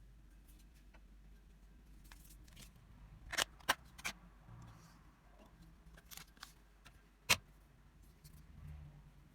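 A handful of sharp clicks and taps of small tools and plastic phone parts being handled, loudest in a quick cluster of three a little past the middle and one more single click near the end, over a faint low hum.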